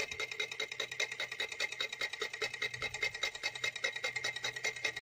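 Small motor spun by steam from a heated can of water, running with a rapid, even ticking of about eight to nine clicks a second over a steady high whine.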